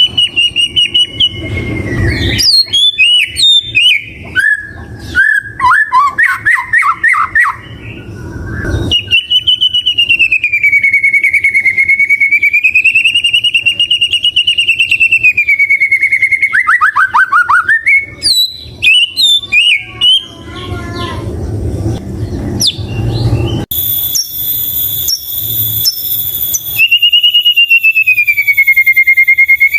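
White-rumped shama singing: quick chirps and trills, then a long wavering whistle held for several seconds, more quick notes, and another wavering whistle near the end.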